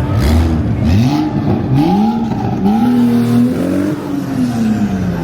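A car engine revved hard several times in quick rising blips, then held high for about a second and let fall back toward idle.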